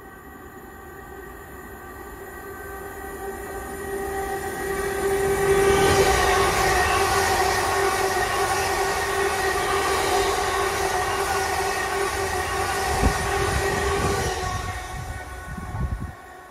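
Greater Anglia electric multiple-unit train running through the station without stopping. It approaches with a rising rush of wheel and air noise and a steady whine, is loudest from about six seconds in as the carriages pass, then fades away from about fourteen seconds, with a single knock near the end of the pass.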